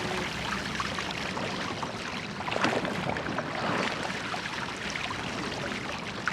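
Water rushing and splashing around a church boat being rowed, with recurring splashes from the oar strokes.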